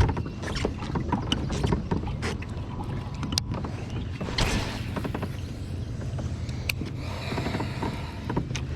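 Kayak sitting on the water, with a steady low rumble and scattered small clicks and knocks against the hull, and a brief swish about four and a half seconds in.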